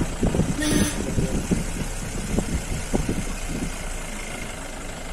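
Safari jeep's engine running steadily under a low rumble, with a brief hiss just under a second in.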